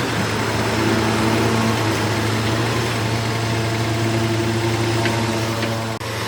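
Heavy diesel engine of a construction machine running steadily at low speed, a constant low hum with a brief dip in level near the end.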